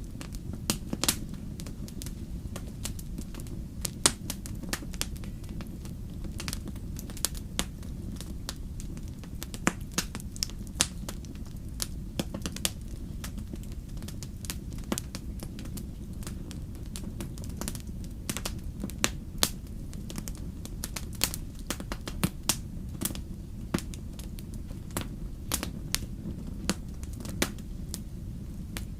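Fire crackling: irregular sharp snaps and pops, a few much louder than the rest, over a steady low rumble of the flames.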